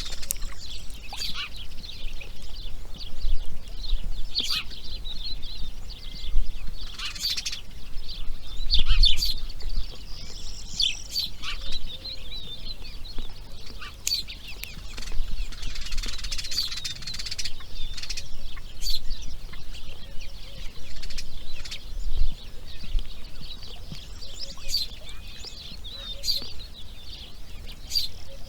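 Birds calling: a dense, continuous run of high chirps and rapid ticking calls, with a faint low rumble underneath.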